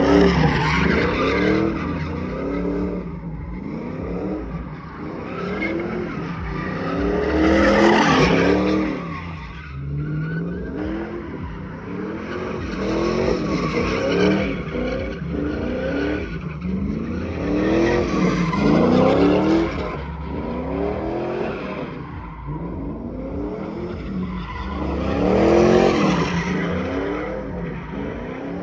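Pickup truck doing a burnout: the engine revs up and falls back again and again, about five big surges, with the rear tyres spinning and squealing on the pavement throughout.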